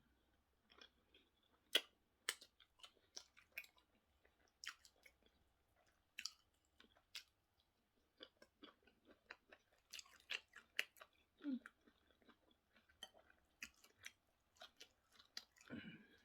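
A person chewing plantain and sauce with the mouth close to the microphone: irregular wet mouth clicks and smacks. There is a short hummed "mm" about two-thirds of the way through and another at the end.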